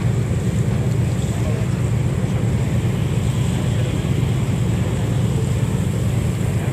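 Steady low drone of a ferry's engines underway, with wind buffeting the microphone.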